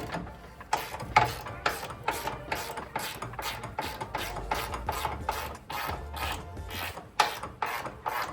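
Hand ratchet wrench clicking in quick strokes, about three to four clicks a second, as a bolt is worked loose.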